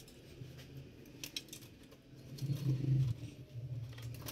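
Small clicks, taps and light rattles of hands working the plastic and metal parts inside an opened LCD monitor as an internal strip is pried loose, with a brief low hum near the middle.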